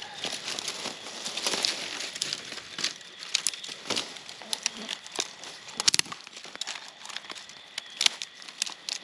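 Dry leaves and kindling twigs rustling and crackling, with many sharp, irregular snaps while a campfire is being laid and started.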